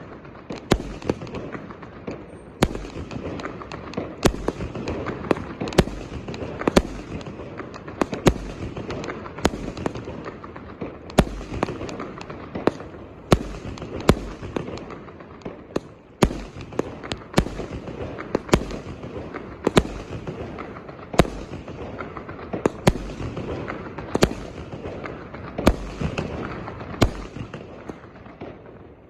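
A 1-inch, 198-shot consumer fireworks cake firing continuously: a sharp report every half second to a second, with dense crackling filling the gaps between them.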